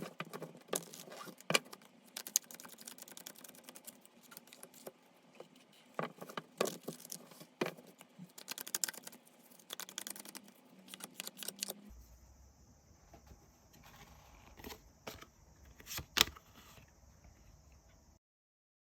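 Tarot cards being shuffled and handled: irregular light clicks, taps and rustles, stopping abruptly near the end.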